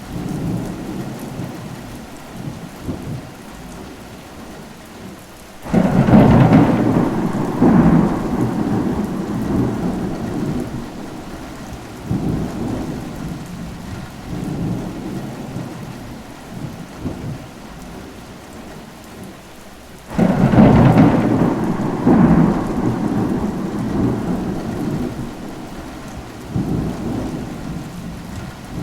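Thunder over steady rain: two sudden thunderclaps, about six seconds in and again about twenty seconds in, each rolling on with rumbles for several seconds before fading back to the rain.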